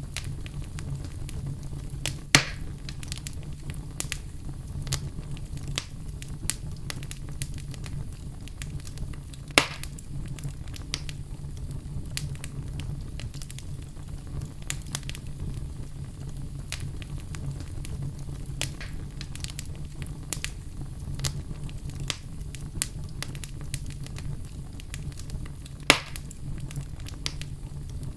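Wood fire burning in a fireplace: a steady low rumble of flames with frequent small crackles and three sharp, louder pops, at about two, ten and twenty-six seconds in.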